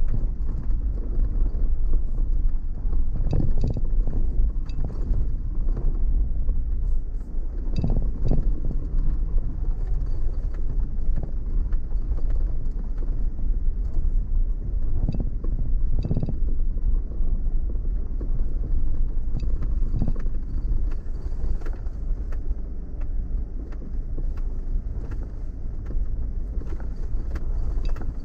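Vehicle driving slowly over a rough dirt track: a steady low rumble with scattered knocks and bumps every few seconds.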